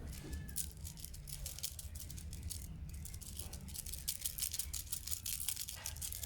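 Light rattling and clicking of a small toy being batted and pushed about by a playing kitten, with the clicks coming thicker near the end.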